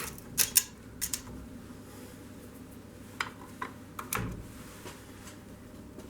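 A few sharp clicks and light knocks at uneven intervals over a faint steady hum, one knock about four seconds in carrying a low thump.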